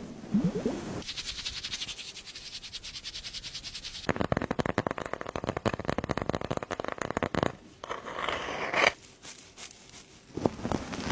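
Slime being squeezed and pressed by hand, giving long runs of fast crackling and popping clicks, with a few separate pops near the end.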